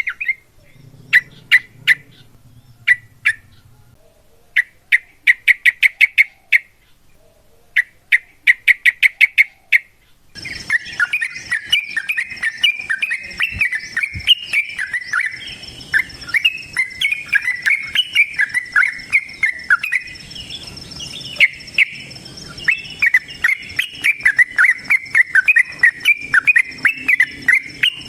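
Yellow-vented bulbul (trucukan) calling: for about ten seconds, short bursts of rapid repeated chip notes, then it switches suddenly to a long, fast, unbroken chattering song. A steady high whine and hiss run behind the song.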